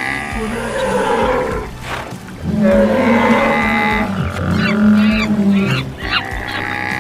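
A mix of animal calls layered over one another, as in a stampede sound effect. Long low calls sound from about two and a half seconds in, and short chirping calls come in briefly around the middle.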